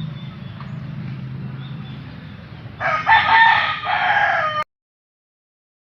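A rooster (gamecock) crows once, loudly, about three seconds in, over a steady low hum. The crow is cut off abruptly when the audio ends.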